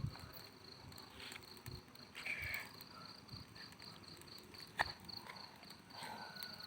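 Faint, steady pulsing chirp of crickets, about five or six pulses a second, with a single sharp click a little before the end.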